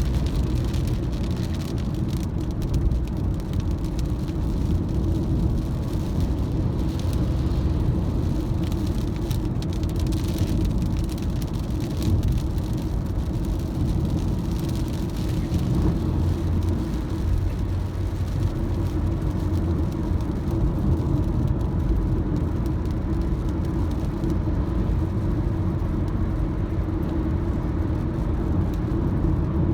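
Car driving in the rain: a steady low rumble of road and engine noise, with a higher hiss that swells briefly a few times.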